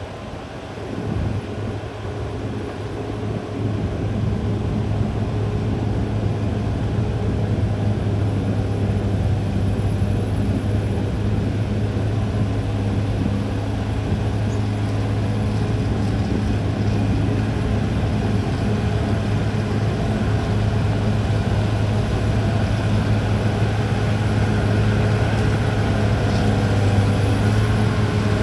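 CAT D6R XL bulldozer's diesel engine running under load with a deep, steady hum. It builds over the first few seconds, then holds level.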